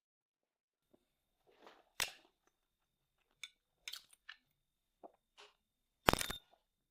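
Eating sounds: a series of short crunches and clicks from biting and chewing, spaced irregularly, with the loudest crunch about six seconds in.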